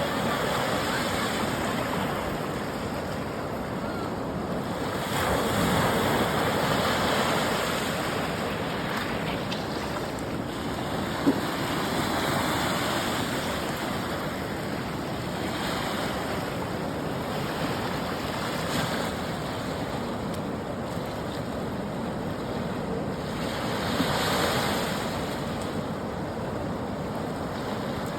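Narayani River water rushing and washing in waves, a steady noise that swells louder now and then. A single sharp click about eleven seconds in.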